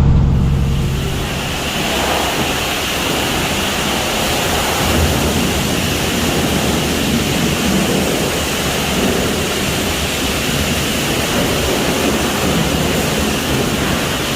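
Steady hiss of high-pressure water spray blasting against a semi truck during a truck wash.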